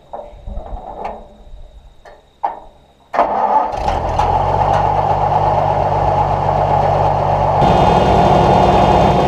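Faint knocks, then an engine starts suddenly about three seconds in and runs steadily. The sound gets brighter about three-quarters of the way through.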